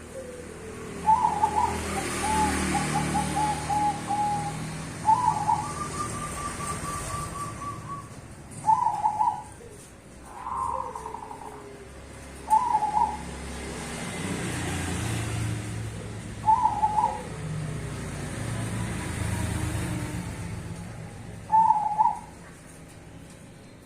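Perkutut (zebra doves) of the cemani and Bangkok varieties cooing in a duet: short, loud, rippling calls repeated every few seconds, a couple of them running on into a longer trill. A low rumble swells and fades in the background.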